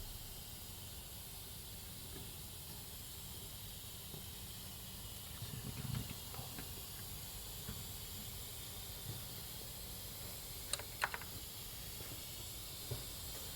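Faint, steady hiss of smoke-test air escaping from vacuum leaks around a Mercedes-Benz 380SL's intake manifold, with a soft knock about six seconds in and two sharp clicks near the end.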